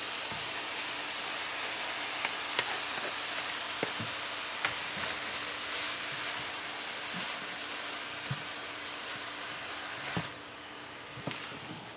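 Drained chow mein noodles and vegetables sizzling in an oiled pan, with scattered light taps and scrapes of a spatula as they are turned over. The sizzle eases off and drops a step about ten seconds in.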